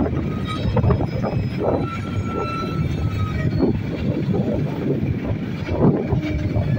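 Komatsu crawler excavator working: diesel engine running steadily under load with scattered clanks and knocks, and a brief high whine in the middle.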